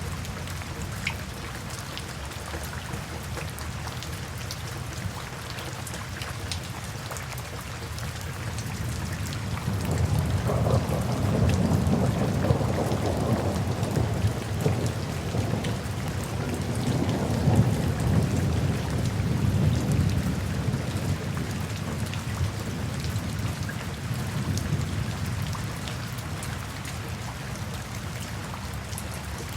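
Steady rain falling, with the fine patter of drops, and a long low roll of thunder that builds about a third of the way in, swells twice and dies away near the end.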